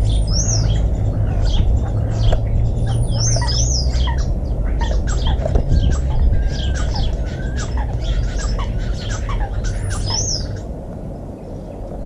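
Small garden birds chirping and calling, many short chirps in quick succession with a few sharper high calls, over a steady low rumble.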